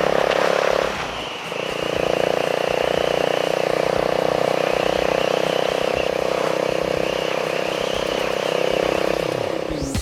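Honda Rebel 250's single-cylinder engine running through an Over Racing SS Megaphone slip-on muffler at steady revs while riding, with a brief drop in engine sound about a second in.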